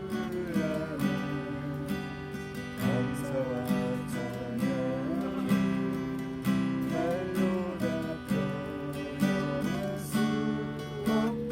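Acoustic guitar strumming chords in a steady rhythm, playing a gospel praise song.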